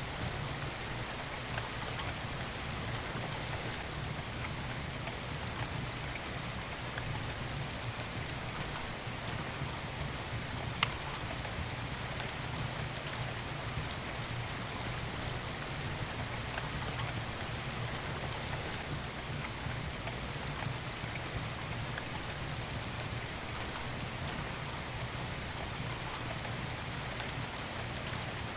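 Steady rain falling, an even hiss of drops, with one sharp pop from the fireplace's burning wood about eleven seconds in.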